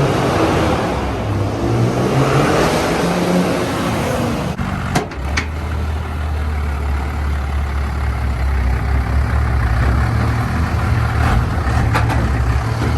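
Truck engine running close by. A loud rushing sound fills the first few seconds, then settles into a steady low drone from about five seconds in.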